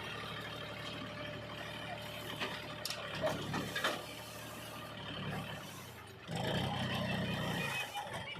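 Diesel engine of heavy machinery running steadily, with two sharp clanks about three and four seconds in. The engine gets louder about six seconds in.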